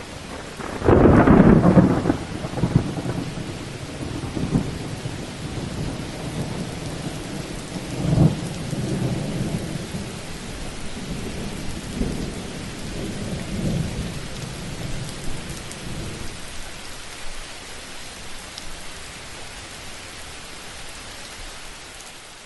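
Thunderstorm: a loud thunderclap about a second in, followed by rolling rumbles that die away over some fifteen seconds, over steady rain.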